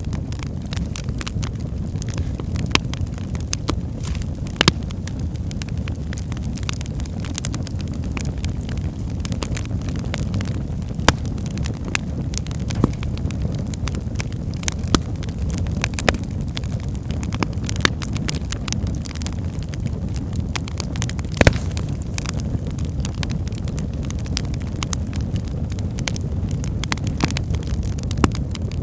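Wood fire burning in a fireplace: a steady low rumble of flames with frequent crackles and pops from the burning logs, a few louder snaps among them.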